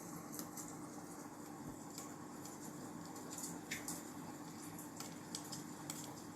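Wood fire in a fireplace crackling, with irregular small snaps and a few sharper pops, over a faint steady hum.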